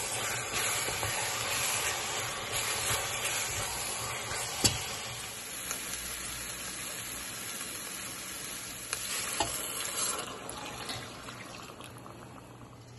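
Chicken and ground spices sizzling in a hot stainless steel pot while a wooden spatula stirs and scrapes, with a few sharp knocks of the spatula; partway through, chicken stock is poured in and the pot hisses and bubbles, then the sizzle quietens near the end.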